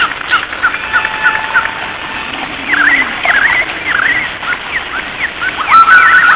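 Birds chirping in short, quick calls over a steady background hiss. Near the end a whistled tune with music comes in.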